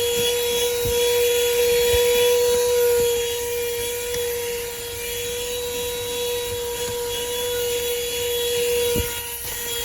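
WORX portable handheld car vacuum running with a steady high motor whine while vacuuming a car's interior, with a few light knocks.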